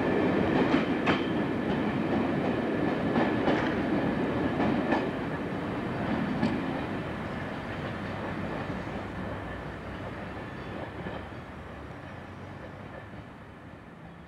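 A slam-door electric multiple unit running away over pointwork, its wheels clicking irregularly over the rail joints in the first few seconds. The rumble then fades steadily as the train recedes.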